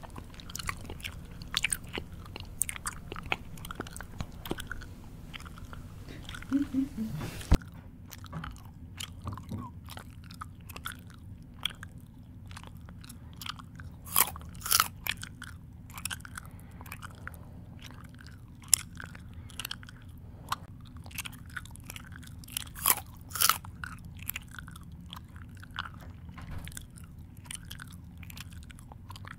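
A person chewing food with the mouth open: irregular crunches and wet mouth clicks, a few louder than the rest. The background hiss drops about seven seconds in.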